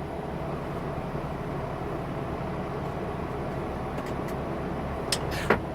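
Truck driving on the road, heard from inside the cab: a steady low rumble of engine and tyres, with two short sharp clicks near the end.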